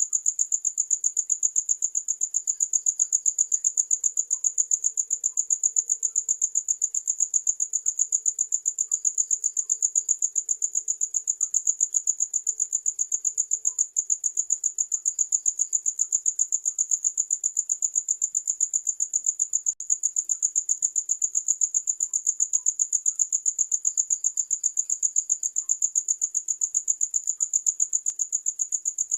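Crickets chirping: a high-pitched, rapid, even trill that keeps up without a break.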